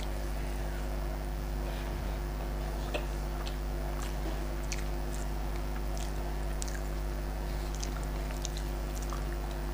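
A person chewing a mouthful of rice and fish curry, with small wet mouth clicks and smacks scattered through, over a steady low electrical hum.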